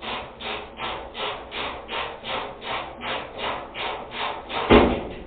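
Ratchet driver worked back and forth to back out a small 8 mm screw, a rasping stroke about three times a second, then a louder knock near the end.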